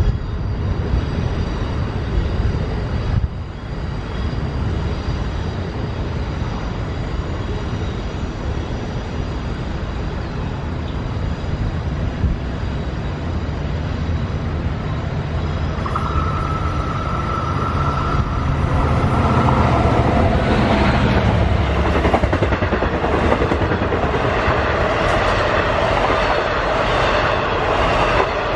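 Long Island Rail Road passenger train: a steady low rumble, with a single steady high tone joining about halfway. The train grows louder over the last third, as it comes close, with several sustained pitched tones over the running noise.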